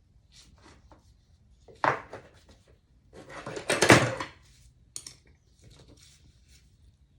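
Small metal parts and hand tools clinking and knocking during a teardown of a Honda Dax engine, with a sharp knock about two seconds in and a louder spell of clattering around four seconds in.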